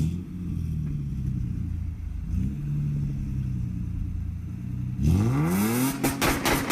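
Car engine idling steadily with a brief blip about two seconds in. Near the end it revs hard, rising in pitch, into a loud, harsh blast of engine and exhaust noise.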